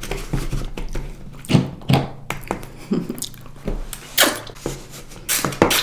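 Close-miked wet mouth sounds of someone eating sour candy: a handful of sharp smacks and sucking clicks, spaced irregularly.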